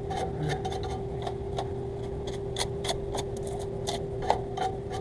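A brush scrubbing inside an air-conditioner unit in short, quick, scratchy strokes over a steady hum, with one sharper click about four seconds in.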